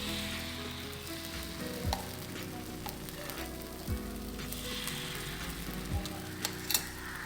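Wheat-flour paniyaram batter sizzling in oil in a paniyaram pan, a steady frying hiss. Background music with a soft low beat about every two seconds plays along.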